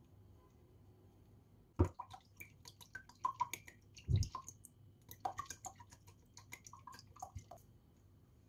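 Small household handling sounds: a sharp knock, then a run of quick clicks and drip-like plinks, with a heavier thump about four seconds in.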